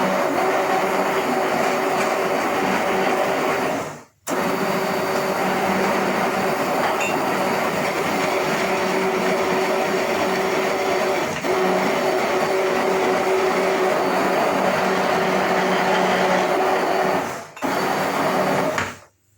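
Electric countertop blender running steadily, blending a batter of cabbage, spinach, eggs, milk and flour. Its motor sound is steady and cuts out briefly twice, about four seconds in and again near the end.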